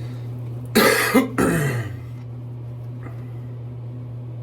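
A man coughing and clearing his throat, a short burst of two or three coughs about a second in, over a steady low hum.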